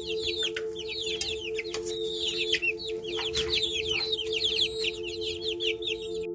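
Many small birds or chicks peeping together in a dense chorus of quick, falling chirps, over a steady ambient music drone.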